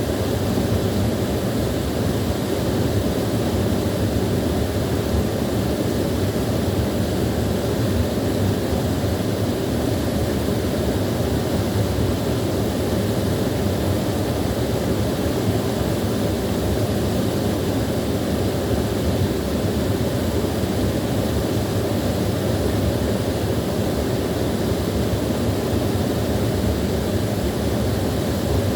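Small waterfall pouring steadily: a constant, even rush of falling water, fullest in its low tones.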